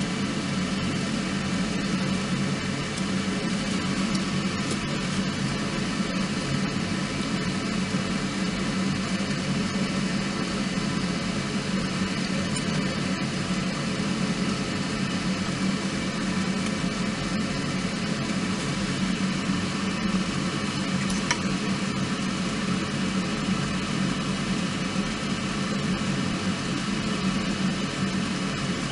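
Small wood fire burning in a compact fire stand, with a few faint crackles over a steady hum and hiss.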